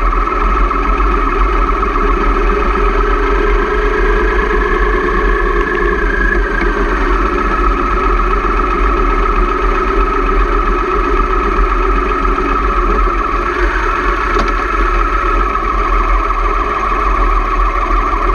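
Motorcycle engine running steadily while riding, its pitch shifting a few times with speed, over a constant low rumble of wind on the microphone.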